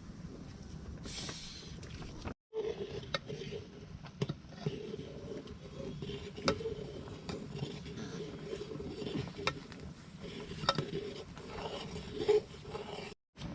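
Scattered light clinks and knocks over a steady hum, broken by two brief drops to silence, one a little after two seconds in and one near the end.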